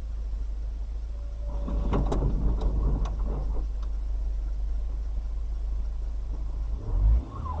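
A car's low, steady road rumble, with a burst of clattering knocks about two to three and a half seconds in and heavier low thumps near the end.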